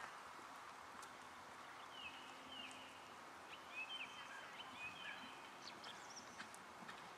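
Small birds chirping faintly, in short repeated calls over a steady outdoor hiss.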